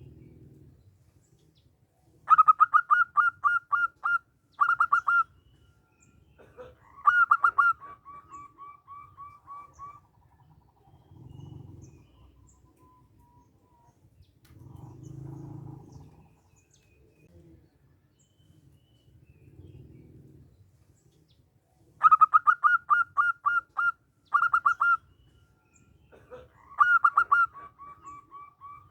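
Zebra dove (perkutut) song: a rapid run of sharp, clipped cooing notes, then a softer trilling tail that fades away. The phrase comes twice, with a long pause between.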